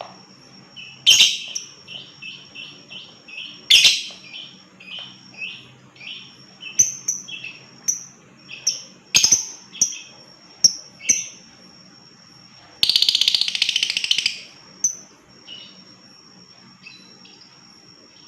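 Lovebirds calling: a run of short chirps about two a second, broken by a few loud sharp shrieks, then near the end a rapid rattling trill of almost two seconds, the 'ngekek' that the bait track is meant to provoke. A steady high-pitched tone runs underneath.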